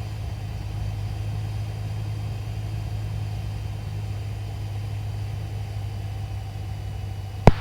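Cessna 172's piston engine droning steadily in cruise, heard from inside the cockpit, with a single sharp click near the end.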